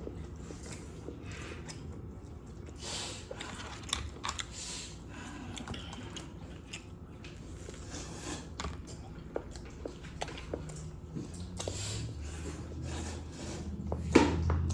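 Close-up eating sounds: chewing and biting, with scattered clicks of cutlery against a dish. A brief voice sounds near the end.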